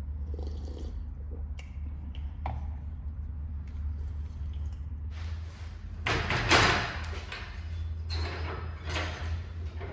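Scraping and knocking sounds over a steady low hum, with the loudest scrape about six and a half seconds in.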